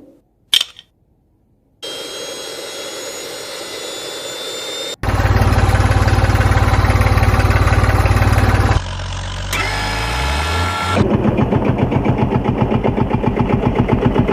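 Engine-like running sounds in abruptly cut pieces: a steady hum, then a louder low drone, then a rising pitch as if starting up, settling into a rhythmic idle-like pulsing at about five beats a second.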